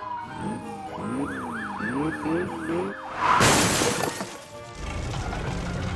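Cartoon emergency-vehicle siren sound effect wailing in quick rising-and-falling sweeps. About three seconds in it is cut by a loud crash-like burst of noise, followed by a low steady hum.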